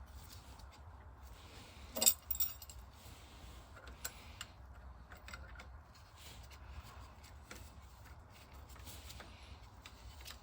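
Metal parts and tools being handled while fitting oil pipework: one sharp metallic clank about two seconds in, a second lighter one just after, then scattered light clicks and taps over a steady low hum.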